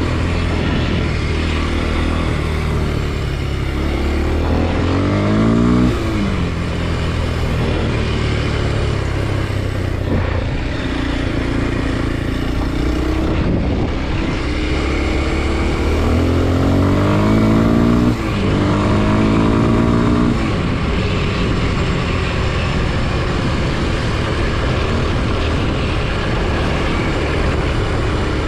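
Kawasaki KLX230 SM's single-cylinder four-stroke engine running under way. Its pitch climbs as it accelerates about four seconds in and falls away sharply near six seconds. It climbs again between about sixteen and twenty seconds, then settles to a steadier run.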